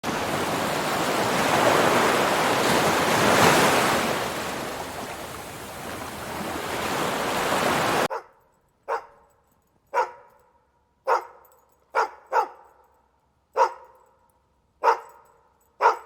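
Ocean waves washing in, swelling and easing for about eight seconds. Then it cuts abruptly to a dog barking, eight single barks about a second apart.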